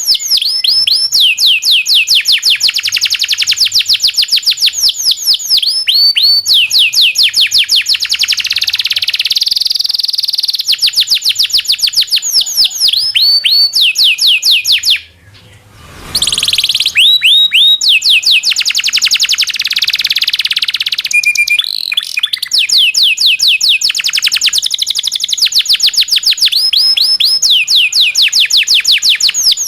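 Domestic canary singing long rolling trills: fast runs of rapidly repeated, downward-sweeping chirps, one phrase after another, with a brief break about halfway through.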